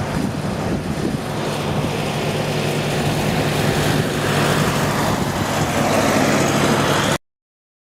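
Tractor engines running steadily, gradually growing louder, then cutting off suddenly about seven seconds in.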